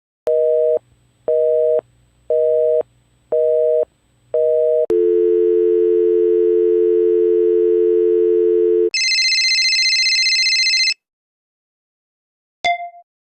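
Telephone line tone sound effects: five on-off pulses of a busy signal, then a steady dial tone for about four seconds, then a shrill high tone for about two seconds that cuts off suddenly, and a short blip near the end.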